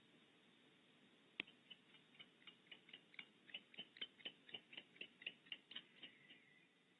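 Barn owl making a rapid series of short, high clicking chirps, about four a second, opening with one sharp click and growing louder before stopping near the end.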